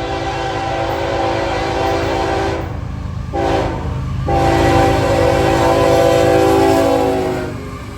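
Diesel locomotive's multi-chime horn on an approaching CSX intermodal freight train, sounding a long blast, a short one about three seconds in, then a louder long blast that ends near the close, over the rumble of the train drawing closer. Long-short-long is the end of the grade-crossing signal.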